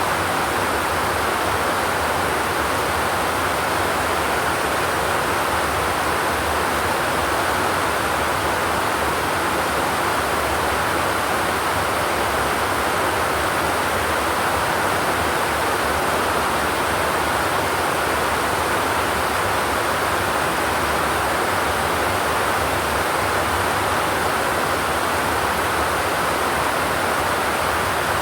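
Steady rain falling without thunder, an even hiss that does not change.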